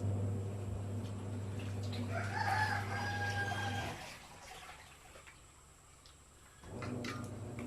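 A rooster crowing once, a drawn-out call lasting about a second and a half, over a steady low hum that stops about four seconds in and comes back near the end.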